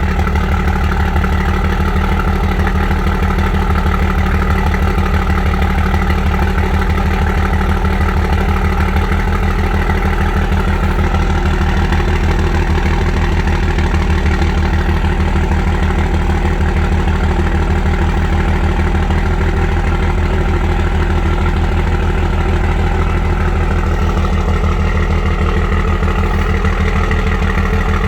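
12-valve Cummins diesel engine idling steadily while still cold, shortly after a cold start.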